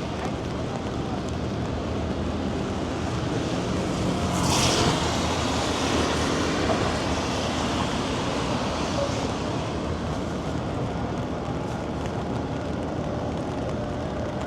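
Rainy city street ambience: steady traffic noise from vehicles on wet roads, with a brief hiss swelling about four seconds in as one passes close.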